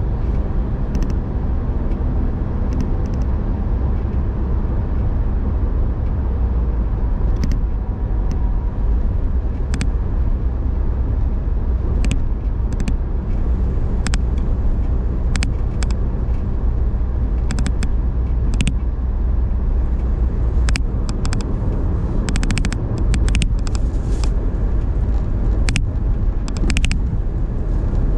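Car being driven: a steady low rumble of engine and road noise, with scattered short sharp clicks that come more often in the second half.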